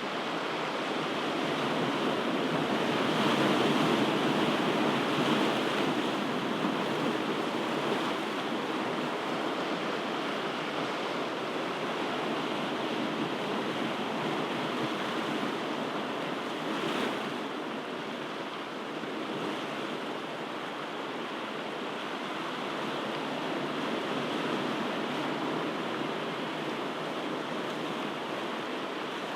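Ocean surf: a steady wash of breaking waves. It swells louder a few seconds in and then eases back.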